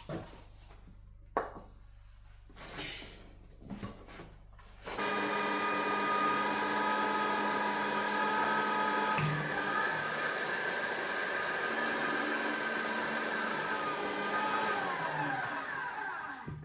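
Magnetic drill on a steel wheel rim. A low hum and a few knocks come first, then the drill motor starts about a third of the way in, runs steadily, and winds down with falling pitch just before the end.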